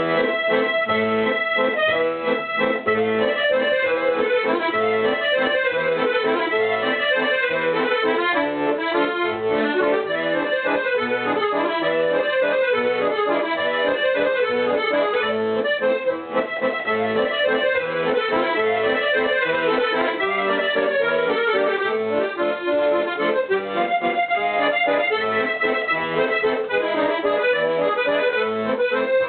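Accordion playing an instrumental tune, with bass notes on a steady, even beat.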